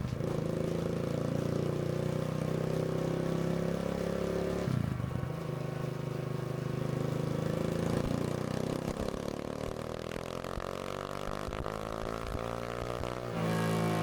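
Kawasaki KLX140RL dirt bike's single-cylinder four-stroke engine, big-bored to 170cc with a Stage 3 cam, running under throttle. It holds a steady note with a brief break about five seconds in, then climbs in pitch over several seconds and gets louder just before the end.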